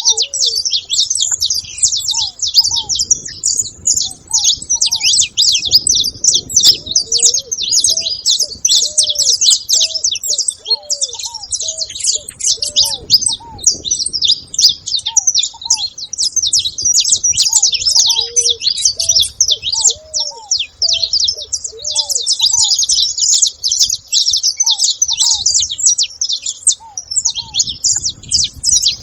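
A group of saffron finches chattering together at a feeding spot: a dense, unbroken stream of rapid high chirps. A series of short, lower call notes repeats underneath.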